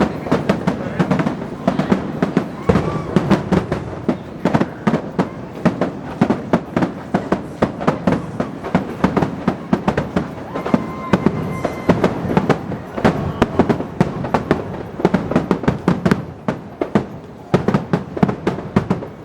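Fireworks display: a rapid, continuous barrage of shell bursts and crackling reports, many bangs a second with no break.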